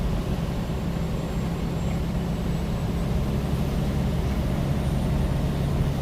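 Semi truck's diesel engine running steadily at highway speed, heard from inside the cab with tyre and road noise; the engine note drops slightly near the end.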